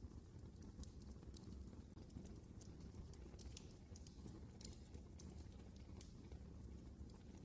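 Faint wood fire crackling in a fireplace: irregular sharp pops and snaps over a steady low rumble of the burning.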